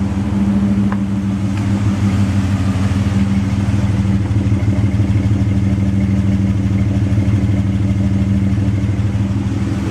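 Exhaust of a Ford Escape XLT's 3.0-litre V6 idling in park, a steady low drone with a fast flutter, heard at the tailpipe: the rough idle the owner is chasing.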